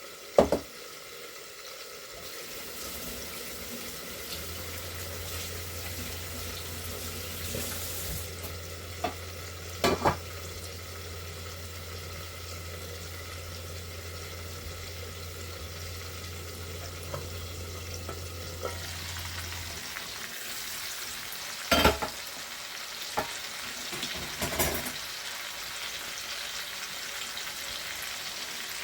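Food frying in hot oil, a steady sizzle, with a few sharp utensil knocks against the pot. A low steady hum runs under it for about fifteen seconds in the middle.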